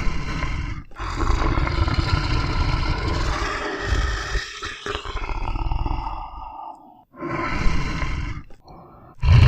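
Lion roaring and growling: a short roar, one long drawn-out roar of about six seconds, then shorter ones near the end.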